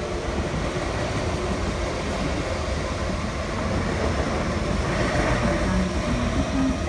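MTR East Rail Line electric train running along the platform and pulling away, a steady rumble of wheels on rail and traction noise that grows slightly louder past the middle.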